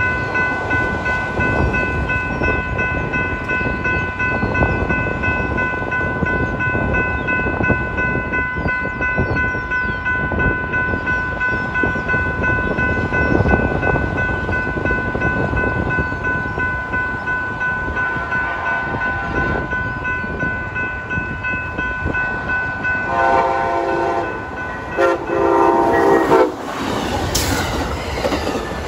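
A railroad crossing bell rings steadily over loud, rushing wind noise while an Amtrak passenger train approaches. Near the end the locomotive's horn sounds two blasts, and the train then rushes past close by with wheel clatter.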